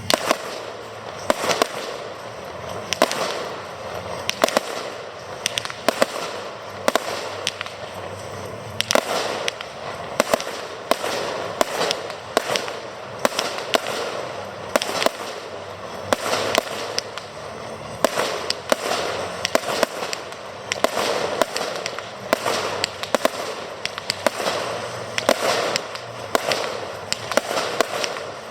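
Aerial fireworks going off in a continuous display: a steady run of sharp bangs, often more than one a second, over a constant noisy haze from the shells bursting.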